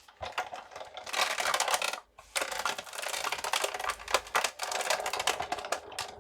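Rapid clicking and rattling as a Sizzix Big Shot's acrylic cutting plates and steel-rule die are handled and flipped. It pauses briefly about two seconds in, then goes on.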